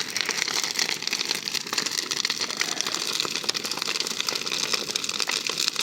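Large wood bonfire burning hard: a dense run of irregular crackles and pops over a steady rushing noise.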